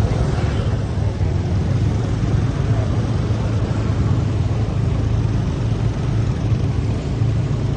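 A vehicle engine running steadily as a constant low drone, with continuous wind and road noise over it.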